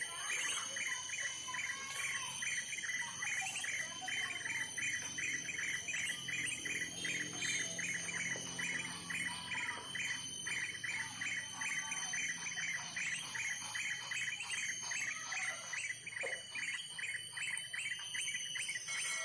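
Birds chirping, a fast unbroken run of repeated chirps at about five a second with occasional whistled phrases, over a steady high-pitched whine.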